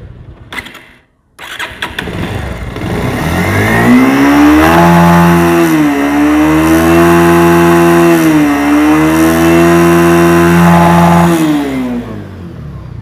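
Bajaj Pulsar motorcycle engine revved up by the throttle, held at high revs with two brief dips, then let back down near the end. The mechanic says the engine has a harsh rattle, as if something were broken, and heavy vibration under throttle, and lacks the Pulsar's usual smooth sound at revs; the video blames worn piston rings.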